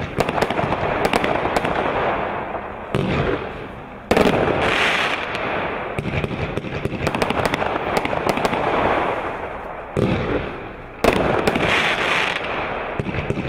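A 50-shot firework barrage cake firing: a rapid, continuous string of shots launching and bursting, with sudden loud new volleys about three, four, ten and eleven seconds in.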